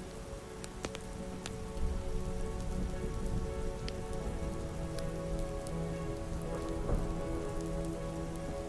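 Steady soft rain with scattered sharp ticks, under an ambient music score of long held low tones that swell slightly about two seconds in.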